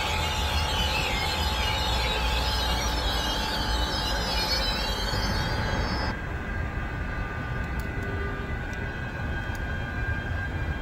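A passenger train running through the station: a steady rumble and rushing noise with a thin, high, steady wheel squeal. About six seconds in the sound drops abruptly to a quieter rumble, with the squeal tone still there.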